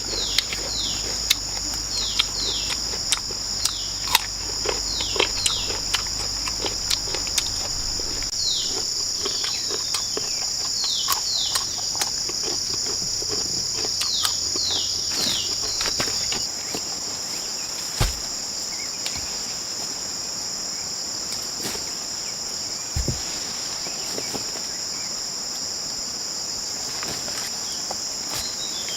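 Steady high-pitched drone of rainforest insects, with a run of short, quickly falling chirps over the first half and scattered sharp clicks and knocks.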